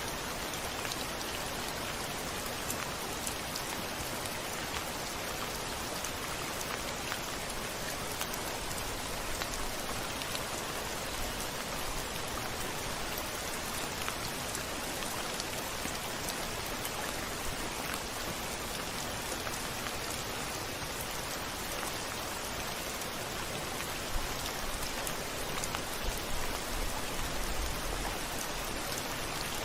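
Steady rain falling, an even hiss with scattered drop ticks. Near the end a faint low rumble of distant thunder swells briefly.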